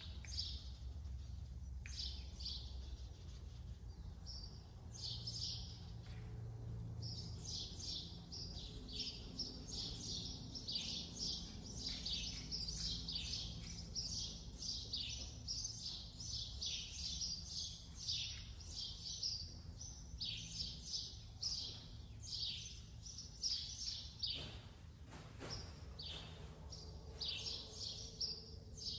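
Small birds chirping over and over, many short high chirps close together, over a low steady hum.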